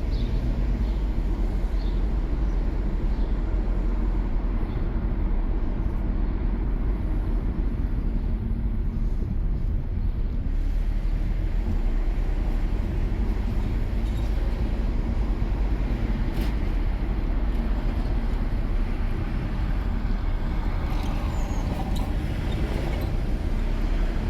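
Steady low road and engine noise of a car driving.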